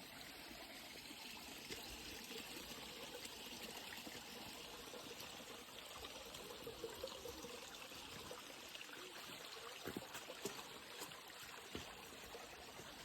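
Faint, steady rush of a flowing stream, with a few light clicks in the second half.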